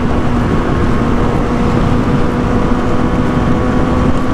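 Kawasaki Z1000 inline-four engine running at a steady highway cruise, its note holding one pitch, under a heavy rush of wind noise on the microphone.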